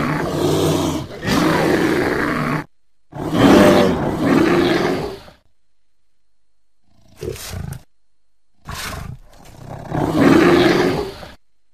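Grizzly bear roars and growls from a film soundtrack, edited into separate pieces. There is a long roar broken once, a second roar, a short quieter growl, and then a growl that builds to a loud roar near the end. Each piece cuts off suddenly to silence.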